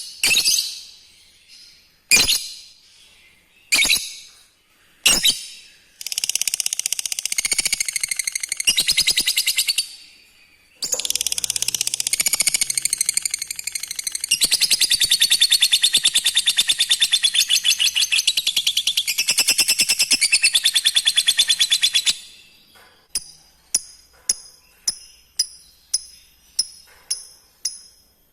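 Lovebird calling: a few sharp single chirps, then long fast rattling chatter (the 'ngekek' trill) running for many seconds with a short break partway, followed by a run of short, evenly spaced ticks, about two a second, near the end.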